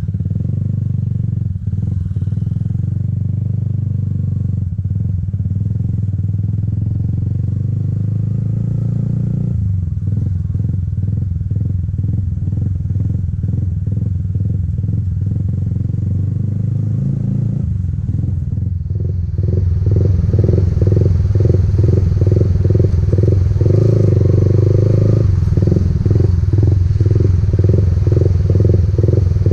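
Motorcycle engine running at low to moderate revs while riding. It gets louder about two-thirds of the way in, with more rushing hiss.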